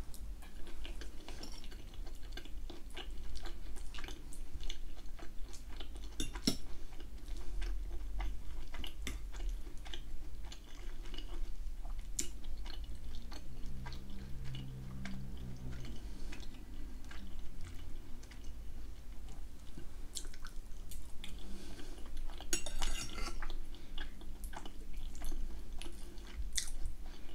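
Close-miked chewing of soft food, a ham and potato gratin with peas and carrots, with many small wet mouth clicks and the odd clink of a fork on a plate.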